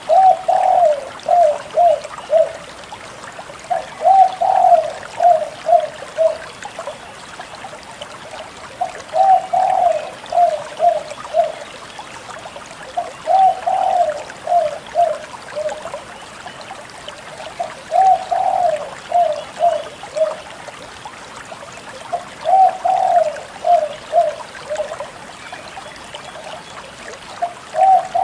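Spotted dove (tekukur) cooing steadily: a low phrase of a longer first coo followed by three or four short coos, repeated about every four and a half seconds, over a steady background hiss.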